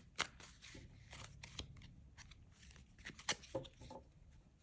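Tarot cards being handled: a scattering of crisp clicks and snaps as cards are shuffled and set down.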